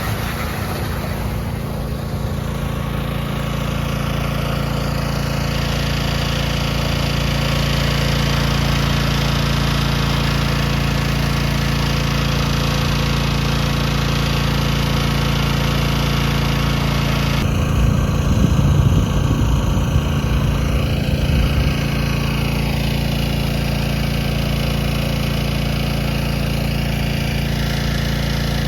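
Small engine of a water pump running steadily at constant speed while pumping water into a tank, with a brief rougher, louder patch about two-thirds of the way through.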